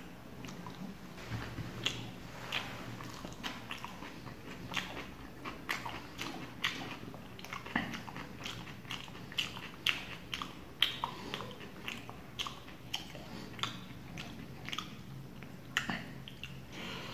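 Close-miked chewing of roti with tarka curry: a steady, irregular run of wet, smacking mouth clicks, about two or three a second.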